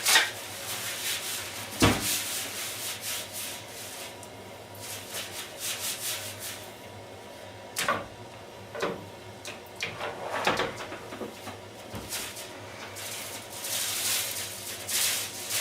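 Kitchen washing-up: rubbing and scrubbing, with a few sharp knocks of utensils or a pan against the sink.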